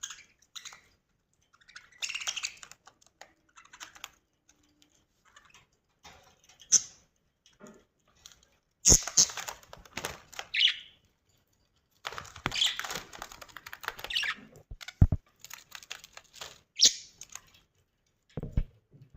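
Budgerigars chirping and chattering in short, high bursts with pauses between, mixed with scattered sharp clicks.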